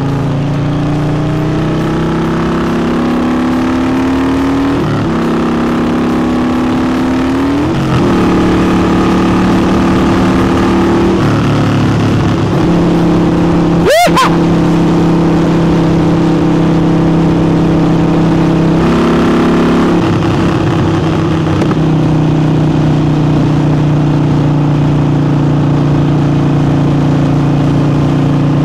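Harley-Davidson Forty-Eight's air-cooled 1200 cc V-twin, fitted with a new air intake, accelerating hard to overtake. The pitch climbs through one gear, drops at a shift about five seconds in, and climbs again. From about eight seconds in it settles to a steady cruise, with a brief sharp sound near the middle.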